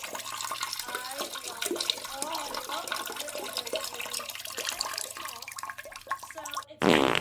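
Water running and splashing. Near the end it cuts off abruptly into a louder, wavering sound.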